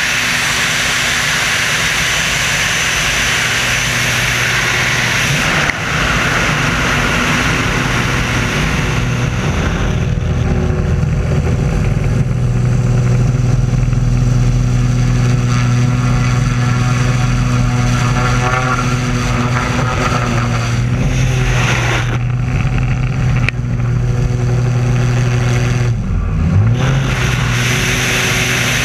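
The Screamin' Sasquatch biplane's engine and propeller running steadily in flight, under the heavy rush of wind. The engine note dips and swings back up briefly near the end, as the power changes.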